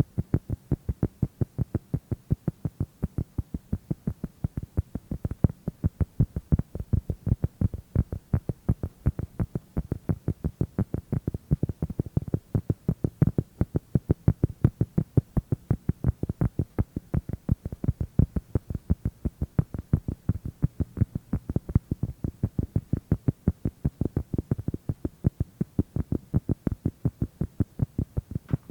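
ASMR tapping on an object: a steady, fast run of dull, low taps, about five a second.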